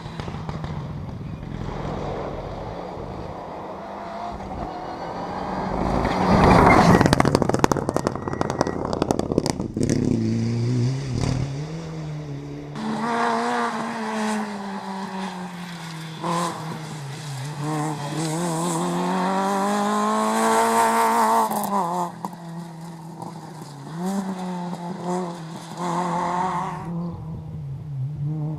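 Rally cars passing at speed on a special stage: a loud close pass with a rush of noise about six seconds in, then engines revving hard, the pitch climbing and dropping again and again through gear changes and lifts.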